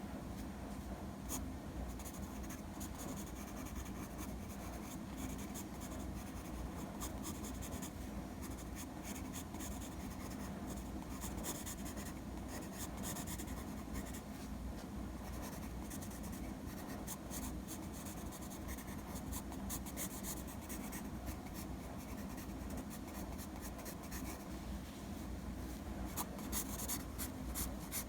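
Sketching: a drawing tool scratching over a surface in short, irregular strokes, over a steady low hum.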